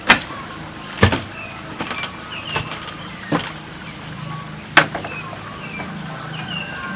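Sharp knocks of work on bamboo, about five loud ones at uneven intervals with fainter taps between. Short high chirps and a low steady hum run underneath.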